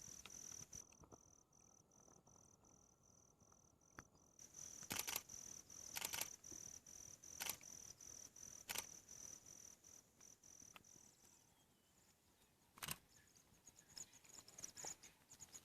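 Faint chirping of crickets: a high, rapidly pulsing trill that stops about eleven seconds in. A few short clicks stand out over it, the loudest around five and six seconds in.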